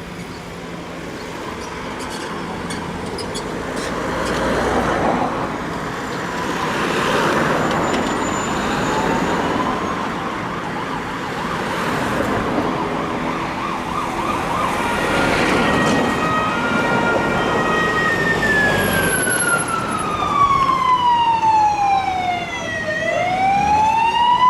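Emergency vehicle sirens approaching through road traffic, growing louder. Near the end a slow wail sweeps down in pitch and climbs back up.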